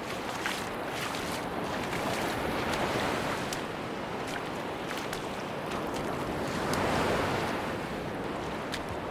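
Sea surf washing onto a beach, swelling twice, about three and seven seconds in, with scattered small clicks and crackles over the wash.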